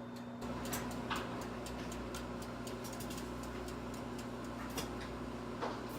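Microwave oven switching on, its low steady hum starting about half a second in, with the ticking of its dial timer over it.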